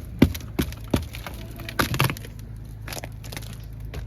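Footsteps crunching on icy ground, about three steps a second, slowing after about a second into a few scattered crunches.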